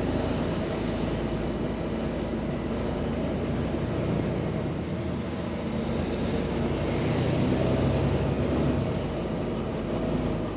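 Volvo double-decker bus's diesel engine running under way, heard on board, with a faint high whine that rises and falls twice. The bus has an exhaust leak.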